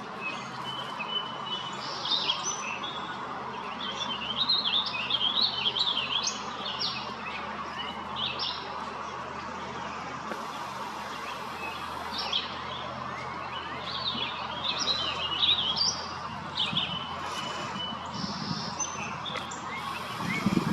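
Several birds chirping and singing in quick, overlapping phrases over a steady background hiss. A low rumble comes in at the very end.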